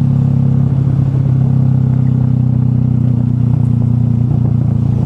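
A vehicle engine running steadily at an even pitch, heard as a strong low hum.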